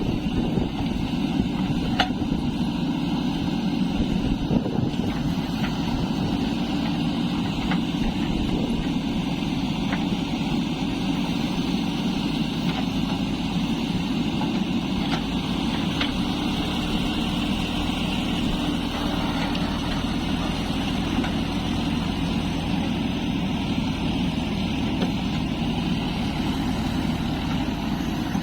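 Heavy diesel engine running steadily, with a few light knocks. About two-thirds of the way through, a deeper steady hum joins it.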